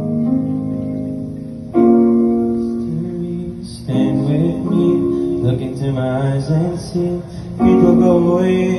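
Slow ballad's instrumental introduction, played live: keyboard chords held and changing every couple of seconds, with a melody line moving over them.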